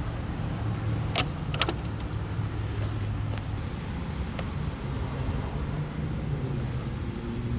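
A 2005 Mercedes SL500's V8 engine idling with a steady low hum. A few sharp clicks come a little over a second in.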